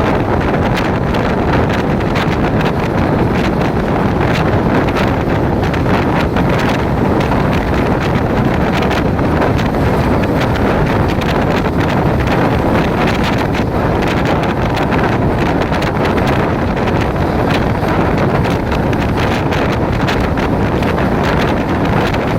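Steady loud wind rushing over the microphone, with the rumble of a moving train beneath it.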